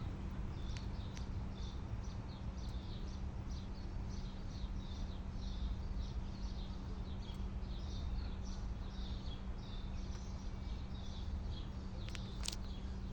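A small bird chirping over and over, about three short high chirps a second, over a steady low hum.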